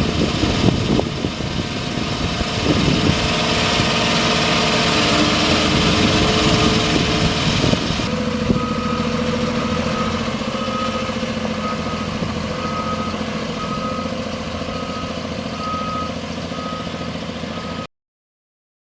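2006 Ford F-750 service truck engine running, then from about halfway a backup alarm beeping a single tone about once a second as the truck reverses; the sound cuts off suddenly near the end.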